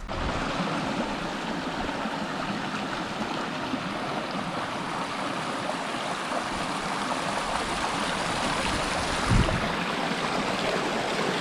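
Steady rush of running stream water, with a single low thump about nine seconds in.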